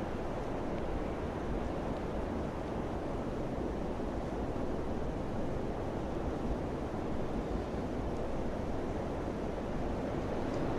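Wind blowing steadily: a dense, even rushing noise with a low rumble underneath, holding at the same level without gusts or pauses.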